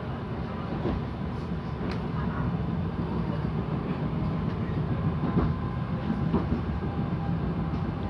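Stadler GTW railcar heard from inside the passenger compartment while running: a steady rumble with a constant hum and occasional short clicks from the track.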